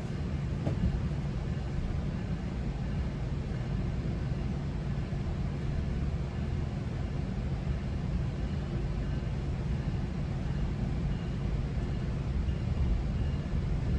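Steady running noise of a GO Transit bilevel passenger coach in motion, heard from inside the coach: a continuous low rumble of wheels on rail, with a faint steady hum.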